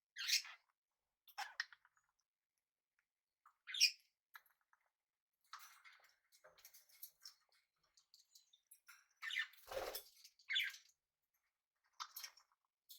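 Small pet parrots calling: short chirps and squawks every second or two, one rising in pitch about four seconds in, with quieter chattering between them and a louder burst of calls near the end.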